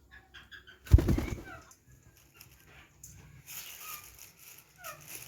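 Pet parrot making soft chirps and a few short falling squeaks, with one loud low thump about a second in.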